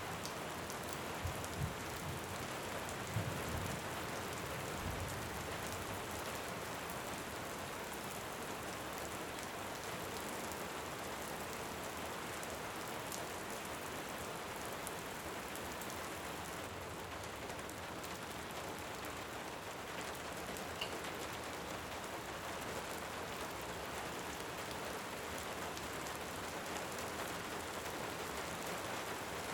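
Steady heavy rain falling, with a few low rumbles of distant thunder dying away in the first few seconds.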